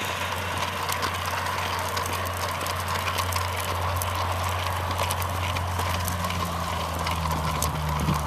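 Massimoto MB200 mini bike's single-cylinder four-stroke engine running steadily under way, with a second low engine note joining about six seconds in.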